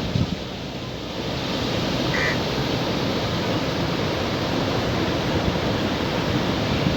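Sea surf washing onto the beach as a steady rushing noise, a little lower for the first second or so. A brief faint high sound comes about two seconds in.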